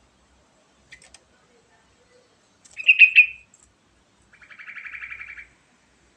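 Trucukan (yellow-vented bulbul) singing: a loud, short chirping phrase about three seconds in, then a fast rattling trill lasting about a second. A couple of faint clicks come about a second in.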